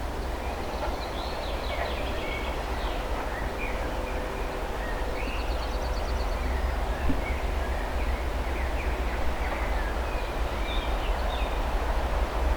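Low rumble of a 2M62U diesel locomotive's two-stroke engines, growing slightly louder, with birds chirping and singing over it.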